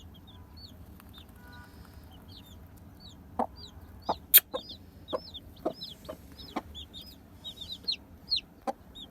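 Several baby chicks peeping continuously, with many short, high, arching chirps overlapping. A few sharp taps sound among them, the loudest a little under halfway through.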